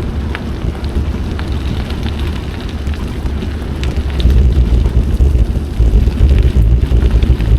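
Wind rumbling on the microphone of a moving bicycle, with tyre noise from the wet trail surface and scattered small clicks.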